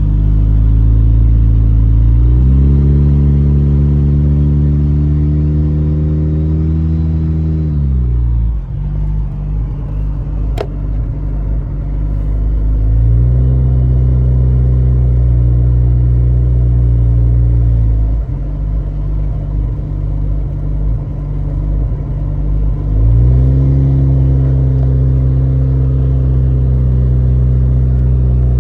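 Nissan 240SX's turbocharged KA24DE four-cylinder engine running under light throttle. Its pitch steps up and climbs three times, then drops back twice to a lower, rougher running in between.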